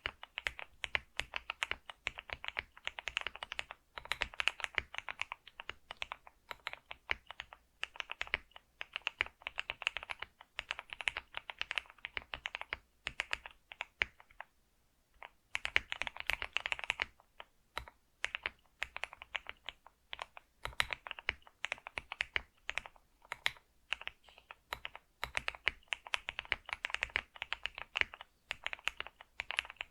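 Computer keyboard being typed on in fast runs of clicking keystrokes, with short pauses between bursts and one longer pause about halfway through.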